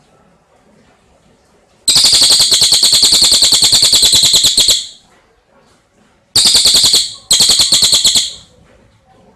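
Tengkek cililin bird calling: a loud, rapid trill of sharp high notes held for about three seconds, then two shorter trills of about a second each, one straight after the other.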